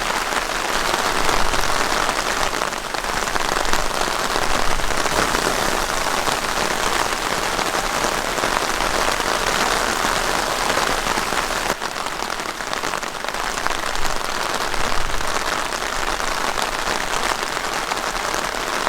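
Heavy rain falling steadily onto tent fabric, a dense, even patter of drops that cuts off abruptly at the very end.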